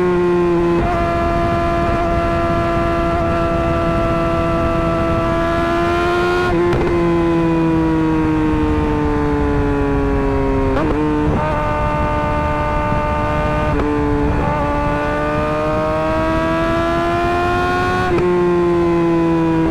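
Suzuki GSX-R 600 inline-four engine through an M4 GP slip-on exhaust, running at a steady high pitch that drifts slowly up and down, with about five sudden jumps in pitch.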